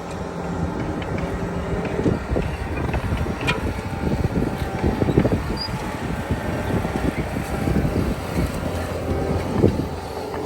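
Bobcat S66 skid steer's diesel engine running steadily under load, with irregular clanks and rattles from the machine and its Harley rake attachment at work.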